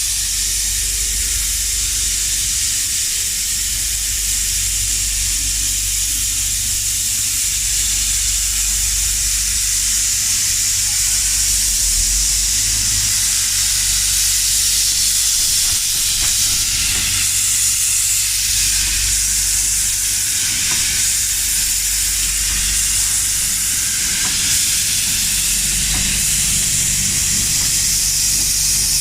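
Pacific-type steam locomotive releasing steam in a steady, loud hiss, with a low rumble underneath.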